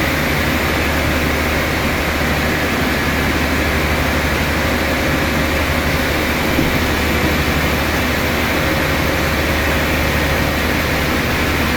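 Machinery running steadily: a constant low hum under an even, noisy wash that does not change.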